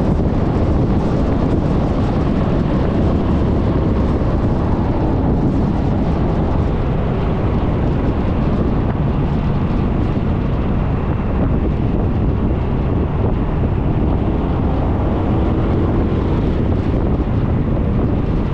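Steady wind rushing over the camera microphone while riding a Suzuki Burgman 400 scooter, with the scooter's single-cylinder engine running underneath.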